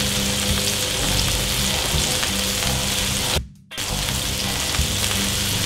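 Ground beef patties and onions sizzling on a hot griddle. The sound drops out briefly about three and a half seconds in.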